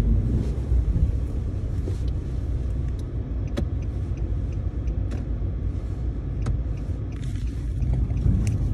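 Steady low rumble inside a car's cabin, with scattered faint clicks and ticks at irregular times.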